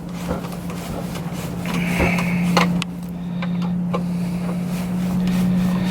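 A steady low hum with scattered sharp clicks and knocks, and a short scrape about two seconds in, as tools and hands work on metal parts of a sailboat's throttle and steering linkage.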